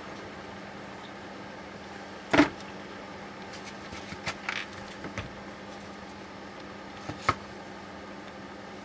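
Work noises from taking apart a steering rack: one loud knock about two seconds in, a run of lighter clicks and taps a little later, and a sharp click near the end, over a steady low hum.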